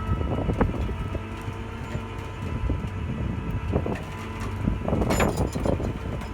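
Tow truck's engine running steadily during a vehicle recovery, with irregular metallic clanks and knocks from the recovery work and a burst of clattering about five seconds in.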